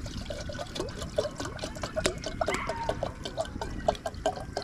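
Water dripping and trickling in quick, pitched little plops, over a steady patter of small sharp taps.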